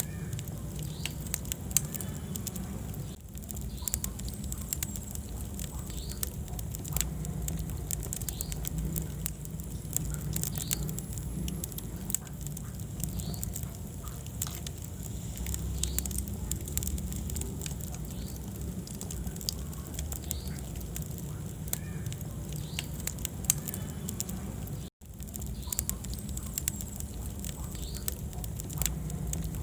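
Wood fire burning in a fireplace, crackling with frequent small pops over a steady low rumble. Two sharper pops stand out, one about two seconds in and one near the end, and the sound drops out for a split second shortly after the second.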